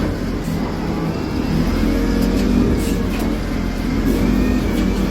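A large engine running steadily, a low rumble with an even hum and a few light knocks.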